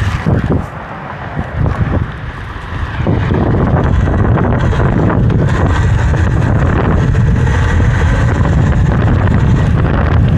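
Wind buffeting the microphone of a rider on a Talaria electric dirt bike, a steady low rumble. It eases for a couple of seconds near the start, then picks up again and holds.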